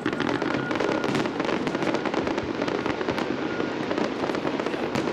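Fireworks display with dense, rapid crackling and popping over a continuous rumble of bursts.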